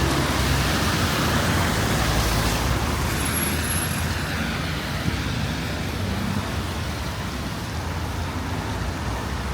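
Road traffic on a wet street: a vehicle's engine and tyre noise, loudest in the first few seconds and easing off, over a steady rumble of traffic.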